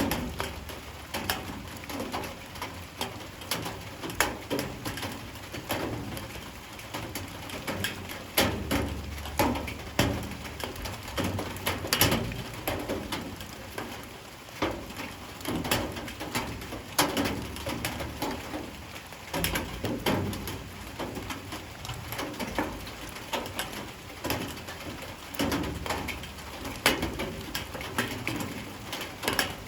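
Light rain falling, with irregular sharp drops and drips ticking onto hard surfaces over a steady hiss.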